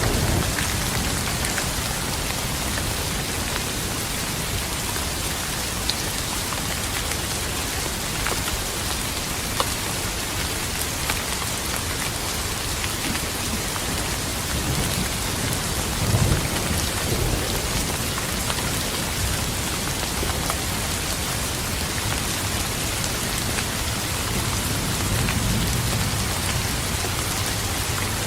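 Steady heavy rain pattering on a surface, with scattered louder drops, and low thunder rumbling at the start and again about halfway through and near the end.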